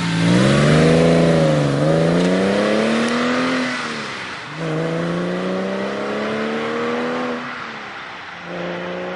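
Porsche 996 Carrera's flat-six engine breathing through Fabspeed Maxflo mufflers, accelerating through the gears. The engine note climbs steadily, drops at each upshift about four and eight seconds in, then climbs again.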